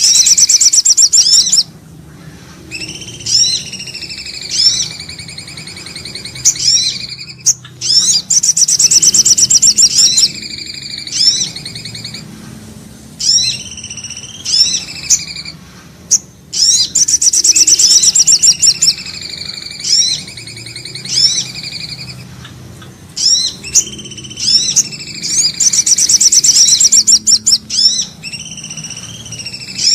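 Looped bird-lure recording of common iora (cipoh) and brown-throated sunbird (sogok ontong) calls. Each phrase is a loud, fast trill of about a second and a half followed by a run of high, curving whistled notes, and the phrase repeats about every eight and a half seconds.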